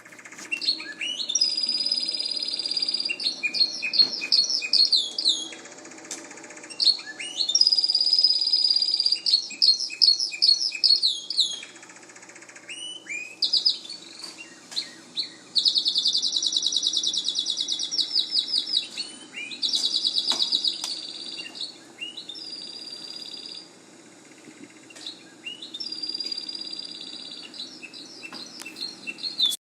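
A songbird singing: repeated phrases of high whistled notes and fast trills, each a few seconds long with short pauses between them, cutting off abruptly at the end.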